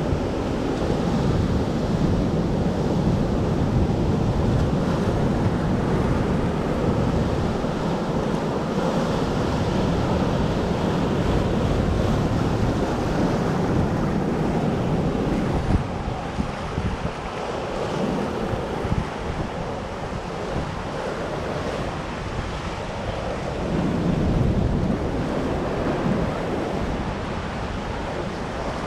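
Heavy storm surf crashing and churning on a beach, with wind buffeting the microphone. A little past halfway the sound drops slightly quieter.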